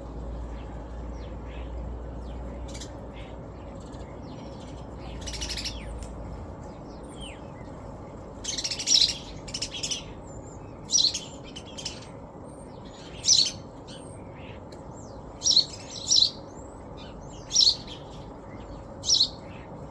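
Small birds chirping. There are a few faint calls at first, then loud, short chirps repeat about every two seconds from near the halfway point, over a steady low background noise.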